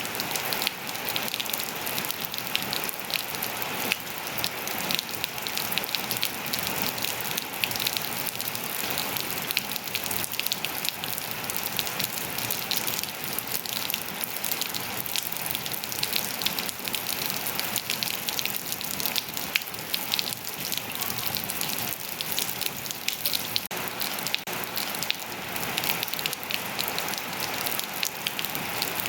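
Steady rainfall, dense drops pattering on surfaces, with many small sharp drop ticks over an even hiss.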